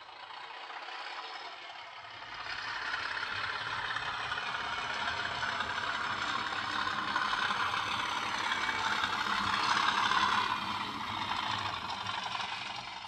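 A train running along track with a steady rattle and clatter, swelling in over the first couple of seconds and fading away near the end.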